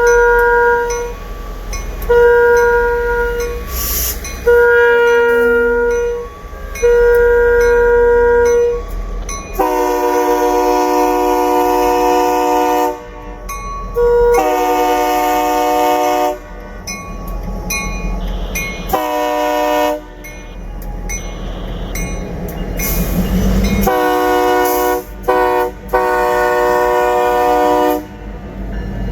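Freight locomotive air horn sounding a series of blasts over a low rumble. Four thinner blasts come first. Then a fuller chord sounds long, long, short, long, the grade-crossing signal.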